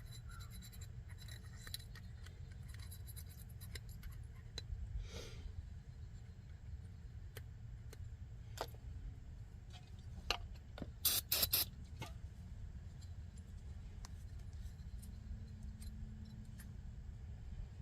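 Faint scattered clicks and scrapes of hands working on small parts, over a low steady hum. A quick run of louder sharp clicks comes about eleven seconds in.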